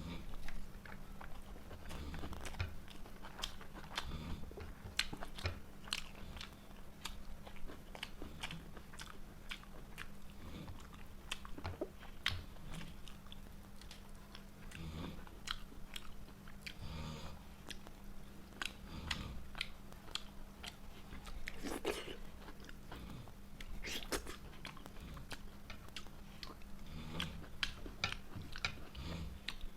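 A person chewing and biting food close to the microphone, with many quick, irregular clicks and crunches, over a faint steady hum.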